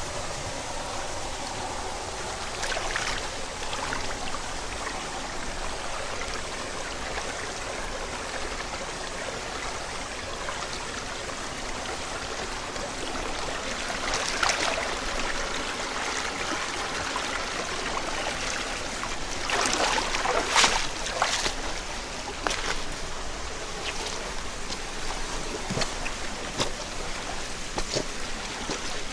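Mountain headwater stream babbling and trickling over rocks, with a few brief louder surges, the strongest about twenty seconds in.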